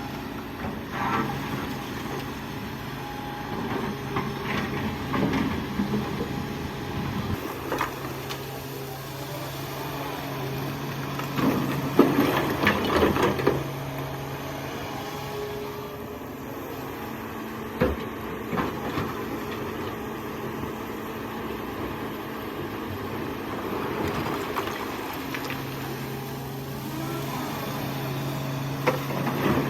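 Excavator's diesel engine running steadily, with bursts of clattering and scraping as the bucket works rock. The loudest clatter comes about twelve seconds in, with a sharp knock a few seconds later.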